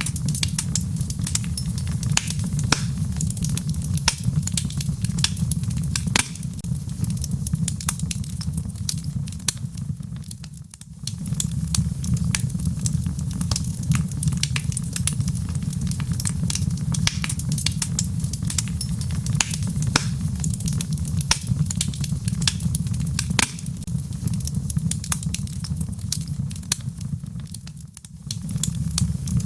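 Wood fire burning in a fireplace: a steady low rumble of flame with frequent sharp crackles and pops from the burning logs. The sound briefly dips and comes back twice, about a third of the way in and near the end.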